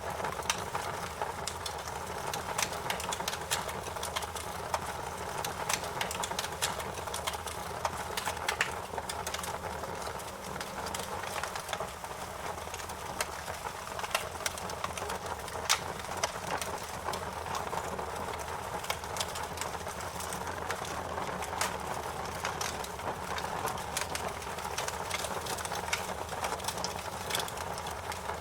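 Wood fire crackling: a steady rush of burning with frequent irregular pops and snaps, a few of them louder.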